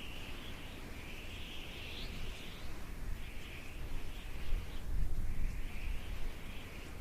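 Birds singing in outdoor ambience, over a rough low rumble of wind on the microphone.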